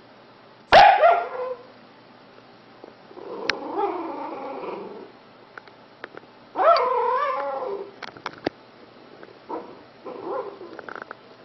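Sleeping puppy yipping and whimpering in its sleep: a sharp yip about a second in, a longer drawn-out whimper, a louder wavering yelp in the middle, then a few short soft yips near the end.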